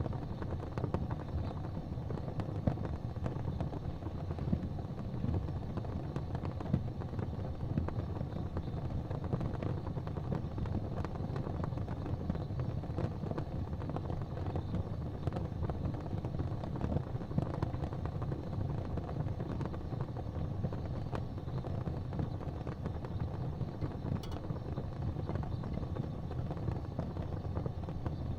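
Wood fire crackling in a fireplace: a steady low rumble of flames with small crackles and pops scattered throughout.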